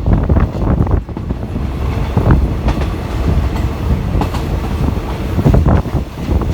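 Passenger train running along the track, heard from on board, with a steady rumble and wheels clattering irregularly over the rail joints.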